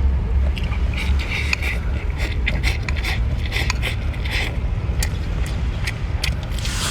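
Close-up eating sounds: chewing and mouth clicks with short smacking and slurping bursts, over a steady low rumble.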